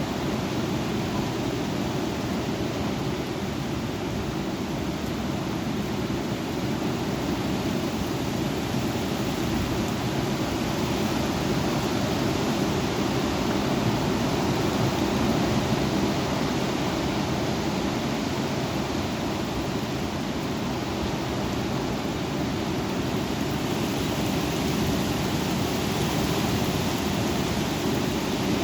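Strong thunderstorm wind blowing in a steady, dense rush, heaviest in the low end, swelling a little about halfway through and again near the end.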